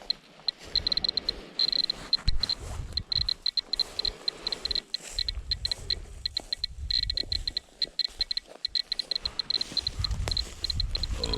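Radiation dosimeter (Geiger counter) chirping in rapid, irregular clusters of short high beeps as it counts radiation, over a low rumble and scattered thumps.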